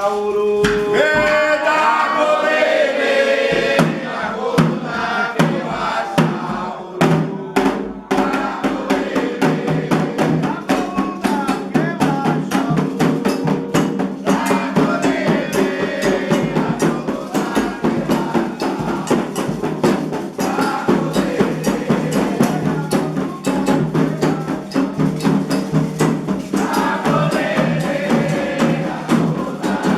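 Candomblé ritual music: voices singing a Yoruba chant over hand drums, with the drumming becoming dense and driving a few seconds in.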